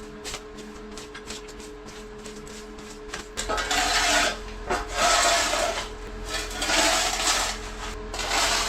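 A few light clicks and knocks over a steady hum, then from about three and a half seconds in, four loud scraping, rubbing noises as objects are slid and shifted about.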